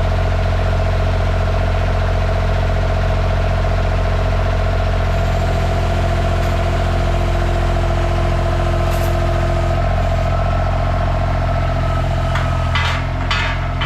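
KRT ST900HD mini skid steer's engine running steadily. An extra steady tone comes in for a few seconds in the middle, and a few sharp knocks sound near the end.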